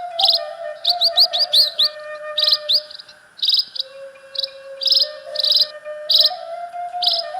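Saluang bamboo flute playing a slow melody of long held notes, the pitch stepping down about four seconds in and rising again later. Over it, birds chirp and insects trill in quick, high repeated calls.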